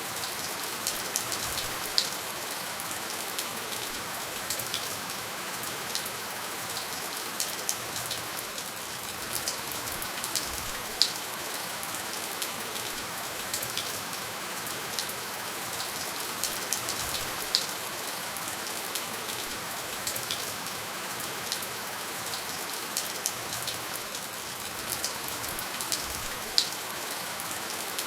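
Steady rainfall with no thunder: an even hiss of rain with frequent sharp, scattered drips and drop impacts standing out.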